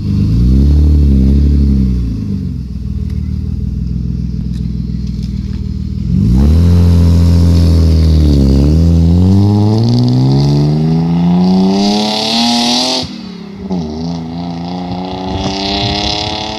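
BMW E36 320i's 2.0-litre straight-six running loud through its exhaust: a few wavering revs, a steady stretch, then a hard pull whose pitch climbs steadily for several seconds. It drops sharply at a gear change about 13 seconds in and climbs again in the next gear.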